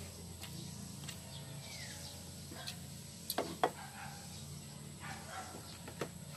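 A bird calling with a short falling whistle, over a steady low hum, with two sharp short clicks or knocks in quick succession about halfway through.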